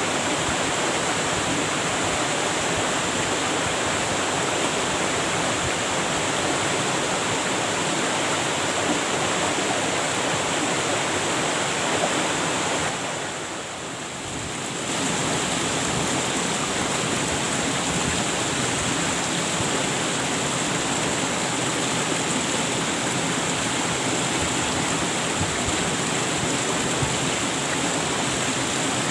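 Waterfall rushing steadily, a continuous dense roar of falling water. It dips briefly a little before the middle, then comes back at full level.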